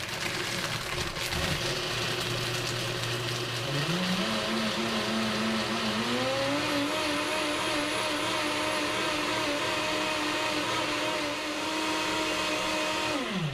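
Vitamix S55 personal blender motor blending soaked cashews, water and ice into cashew milk. It starts low, steps up in speed twice to a steady high whir, then cuts off near the end with a quick falling pitch.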